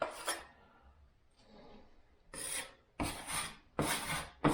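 Plastering knife scraping plaster compound across plasterboard in short strokes: one right at the start, then a pause, then four quick strokes about half a second apart near the end.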